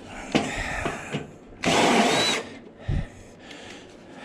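A handheld power tool runs in one short burst of just under a second around the middle, with a few knocks before and after it.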